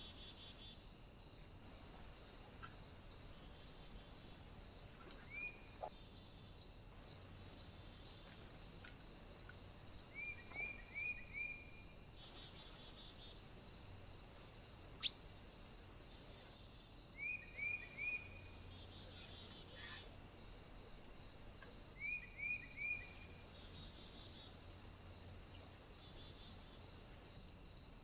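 A small bird calling in quick groups of three or four short chirps, repeated about every five or six seconds, over a steady high hiss. A single sharp click about halfway through is the loudest sound.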